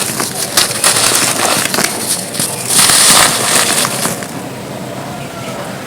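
Gritty red dirt cones being crushed and crumbled, a dense crunching and crackling full of small cracks. The crunching is loudest about three seconds in and grows softer after about four seconds.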